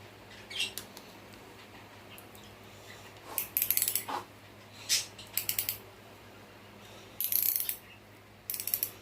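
Hand socket ratchet clicking in four short runs of rapid pawl clicks as a bolt is snugged down during engine assembly, with a few single clicks in between.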